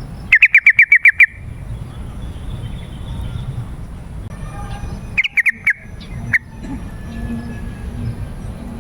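Yellow-vented bulbul (trucukan) calling: a quick run of about seven bubbly notes near the start, then a shorter burst of three or four notes just past halfway and one more note soon after, over a steady low background hiss.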